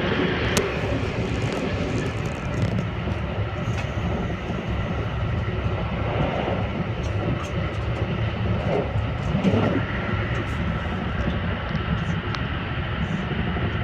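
Steady running noise of the Haruka limited express train heard from inside the passenger car: a low rumble and hum of the wheels on the rails at speed, with a few faint clicks.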